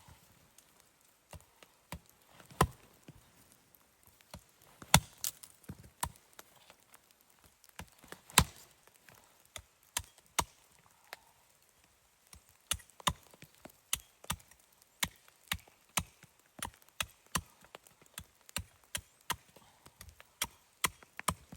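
Wood being chopped: repeated sharp strikes, scattered at first, then settling into a steady run of about two a second from about halfway in.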